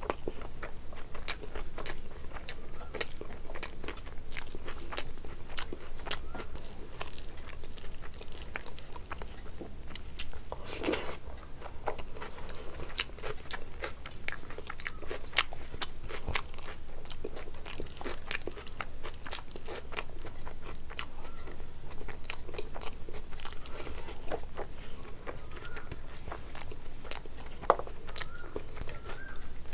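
Close-miked chewing of a mouthful of rice and curry: a steady run of wet mouth clicks and smacks, with fingers squishing rice and gravy on the plate.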